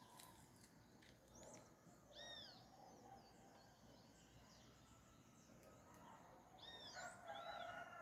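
Faint wild birdsong at dawn: a few clear arched, whistled calls about two seconds in and again near the end, with scattered short chirps, over a steady background hiss.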